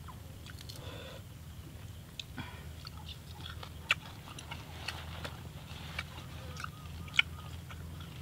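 A person chewing food, with scattered short sharp mouth clicks; the loudest come about four and seven seconds in. A steady low hum runs underneath.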